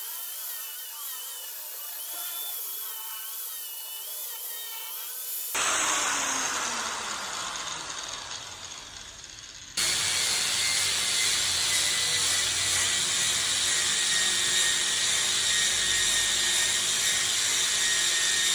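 Power tools working wood, in three edited-together pieces. First a whine whose pitch wavers up and down, then a louder burst whose pitch falls as it fades, then a steady, louder run.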